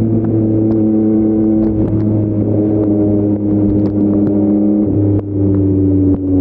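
Yamaha MT-09's 890 cc inline-three engine running through an Akrapovic full-system exhaust at a fairly steady pitch, with brief dips in the sound about five and six seconds in.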